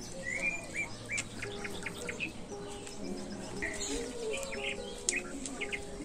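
Small birds chirping, many short calls and quick rising chirps, over soft background music with held notes.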